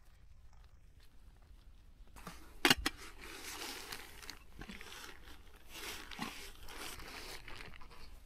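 Rustling and crunching handling noise with small clicks, and one sharp knock about three seconds in.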